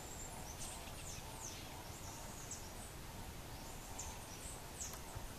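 Faint high, thin chirps of small songbirds, short notes sliding steeply downward and scattered irregularly, over steady outdoor background hiss.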